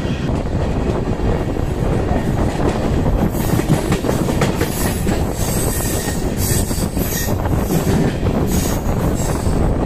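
Tamil Nadu Express coaches running on the rails: a loud, steady rumble and clatter of the wheels, with irregular high hissing streaks from about three seconds in.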